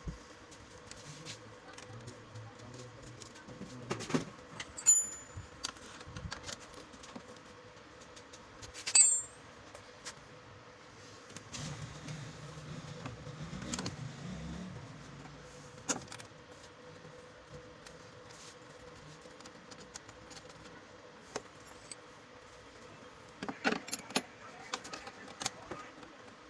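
Scattered metallic clicks and clinks of small parts or tools being handled, the loudest about four and nine seconds in, over a faint steady hum.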